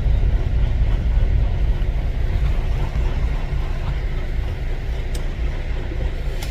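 Heavy rain falling steadily over the deep, even rumble of an idling semi-truck diesel engine.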